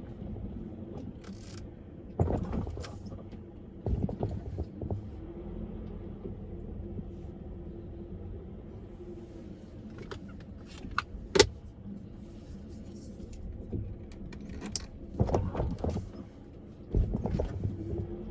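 Car running at road speed, its steady low road and engine hum heard from inside, broken every few seconds by sharp rattles and knocks; the loudest is a single sharp click about two-thirds of the way through.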